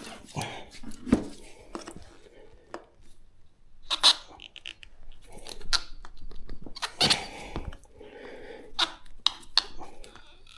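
Metal tyre lever working a motorcycle tyre's bead off the rim: irregular knocks and scrapes of the lever against the rim and the tyre rubber as it is levered a little further round, the bead not yet broken.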